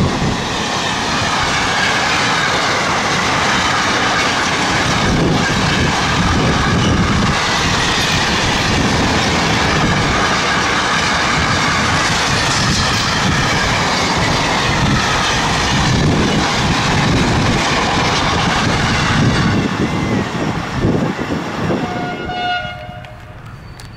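A freight train of empty flat and container wagons rolls past, with steady loud wheel-on-rail noise and clickety-clack over the rail joints. The noise drops off abruptly about 22 seconds in, leaving a brief pitched tone near the end.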